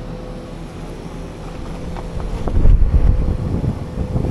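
Outdoor HVAC heat pump units running with a steady hum. About two and a half seconds in, a burst of low rumbling air buffets the microphone for over a second.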